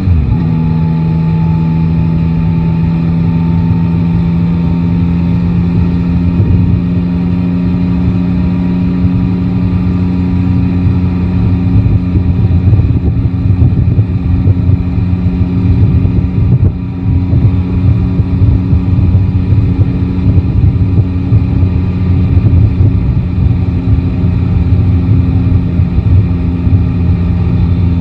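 Yamaha Tracer 9 GT's three-cylinder engine heard from the rider's seat, running at steady revs. Its pitch drops just after the start, then holds. A rougher, fluttering low rumble grows over it from about halfway.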